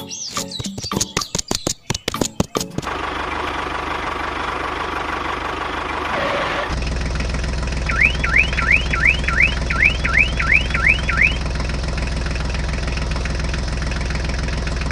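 Steady low engine drone of a toy tractor's engine sound effect, with a run of about nine quick rising whoops like a car alarm partway through. In the first few seconds, before it, rapid clicking and rattling, then a steady hiss.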